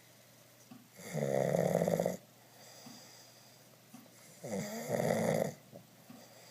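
Pug snoring: two loud snores, each about a second long and about three seconds apart.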